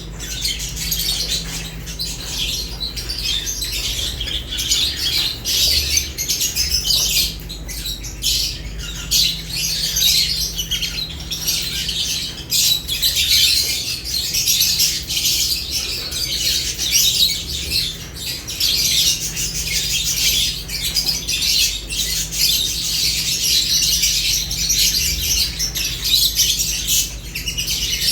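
A flock of lovebirds chirping and chattering without pause, many high calls overlapping, over a steady low hum.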